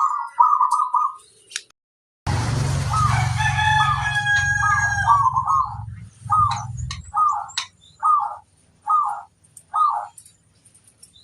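Zebra dove (perkutut) cooing: short rhythmic coo phrases, then a run of single notes about two-thirds of a second apart. A low steady hum lies under the first half of the calls.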